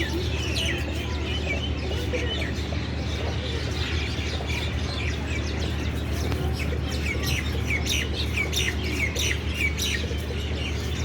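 Small birds chirping: many short, quick chirps overlapping, busiest from about seven to ten seconds in, over a steady low hum.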